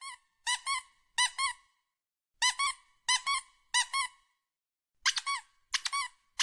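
A squeaky toy squeaked over and over in quick pairs, each squeak short and high-pitched, the pairs about a second apart.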